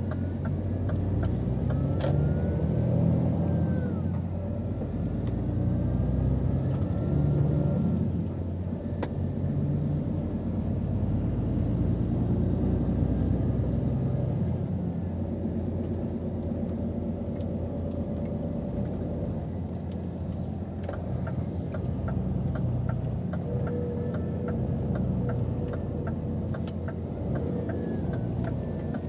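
Scania R500 truck under way, its 13-litre straight-six diesel and road noise making a steady low rumble inside the cab that swells and eases slightly. A light, regular ticking comes in at times, most clearly near the end.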